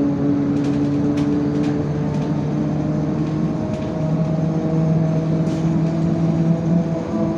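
IVECO city bus under way: the engine and drivetrain run with steady tones that shift in pitch about two seconds in and again about four seconds in, with a few faint rattles.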